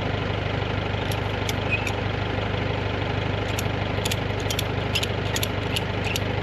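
Tractor engine idling steadily, with a scatter of short sharp clicks over it.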